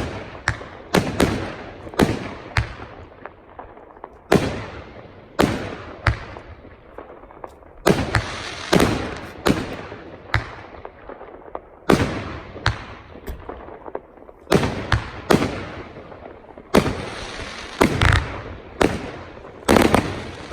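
A 1.2-inch, 25-shot firework cake firing shot after shot. Each shot is a sharp bang with a fading crackle, the shots often in close pairs, about one or two a second.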